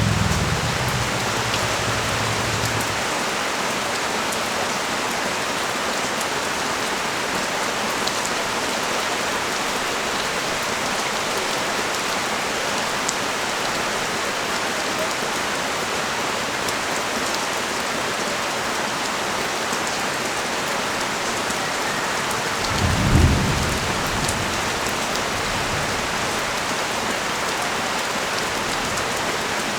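Heavy rain pouring steadily onto a street, an even hiss with no let-up. A low rumble fades out in the first few seconds, and another short low rumble comes about three-quarters of the way through.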